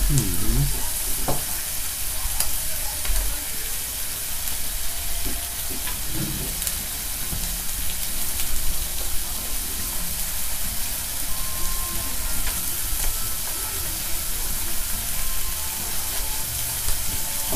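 Eggplant slices, sausages and fried tofu sizzling steadily on a tabletop griddle, with a few light clicks as chopsticks turn the pieces.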